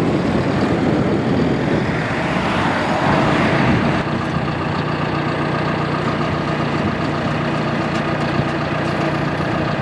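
John Deere 5100E tractor's four-cylinder turbo diesel running at higher revs, then dropping to a steady idle about four seconds in.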